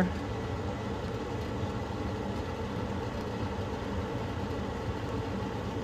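Goodman GPH14 gas pack running steadily in heat mode after lighting: a constant mechanical hum from its motors with no breaks or changes.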